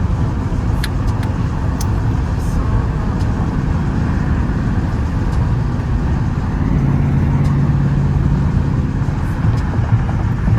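Straight-piped, catless Dodge Charger R/T V8 exhaust rumbling steadily while cruising, heard from inside the car. A steady low drone comes in about two-thirds of the way through and fades a couple of seconds later.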